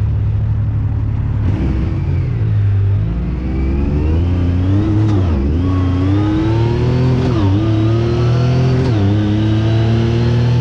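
Side-by-side UTV engine accelerating. Its pitch climbs steadily, drops back sharply three times, and climbs again each time.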